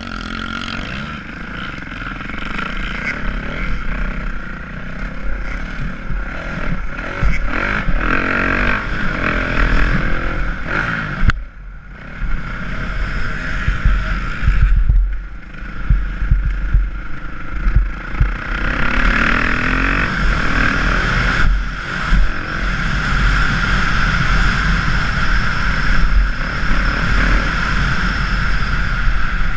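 Motocross dirt bike engine running hard, revving up and down through the gears as it rides the track, with brief drops where the throttle is shut off, about a third of the way in and again a few seconds later.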